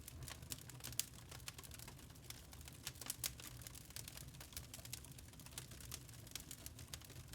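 Wood burning in a log fire, crackling with many irregular sharp snaps and pops over a low, steady rumble of flame.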